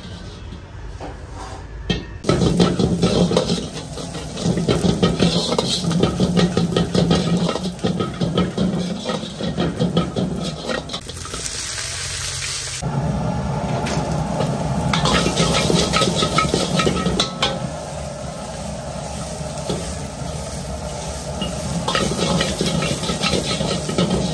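Food sizzling in a hot pan as it is stir-fried, with the clatter and scrape of a metal ladle against the pan. The sizzle starts loud about two seconds in and briefly thins out around the middle.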